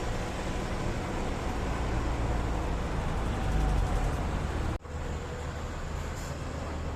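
Street traffic with a low engine rumble, swelling slightly in the middle, and a brief sudden drop-out about five seconds in.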